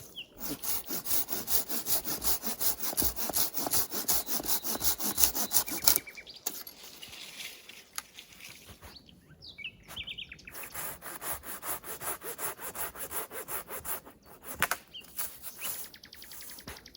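A hand saw cutting wood in quick, even back-and-forth strokes for about six seconds, then stopping. Fainter strokes resume later on.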